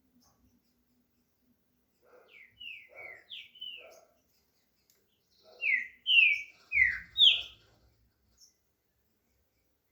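Green-winged saltator (trinca-ferro) singing: a soft phrase of four slurred whistled notes about two seconds in, then a louder phrase of four strong down-slurred whistles about six seconds in.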